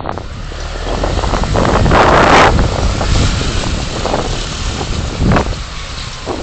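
Car driving in traffic, heard through a dashcam: steady road and tyre rumble with a rush of noise that swells and fades about two seconds in, and a few short knocks.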